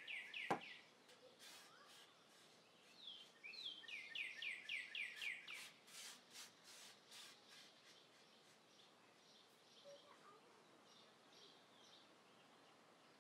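Faint bird song in the background: a quick run of down-slurred chirps at the start, and another about four seconds in. A single sharp click about half a second in.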